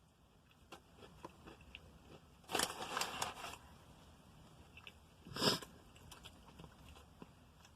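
Close-up eating of a fried chicken sandwich: a crackly crunch of about a second as the crispy breading is bitten, then a shorter, louder crunch about two seconds later, with faint chewing clicks around them.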